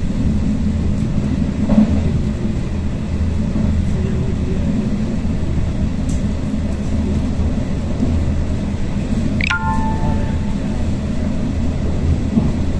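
Running noise of a regional passenger train heard from inside the carriage: a steady low rumble of the train moving on the track. About nine and a half seconds in, a brief high sound falls in pitch and ends in a few short tones.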